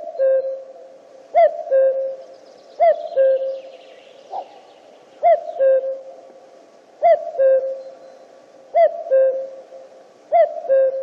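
Common cuckoo (Cuculus canorus) calling its two-note 'cu-coo', a short higher note dropping to a longer lower one. The call is repeated seven times, about every second and a half.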